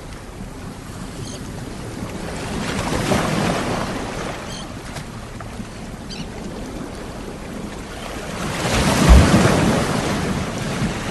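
Sea waves washing onto the shore: a smaller swell of surf about three seconds in and a louder one breaking near the end.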